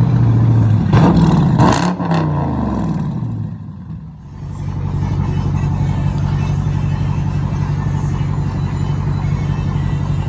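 Straight-piped 5.7 Hemi V8 exhaust, loud: the engine is blipped, the revs fall away over a couple of seconds, and it then settles into a steady idle from about four seconds in.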